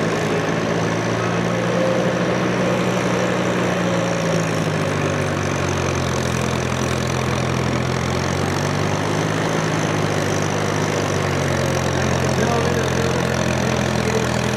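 Tractor engine running at a steady idle, its pitch dipping and rising slightly a couple of times.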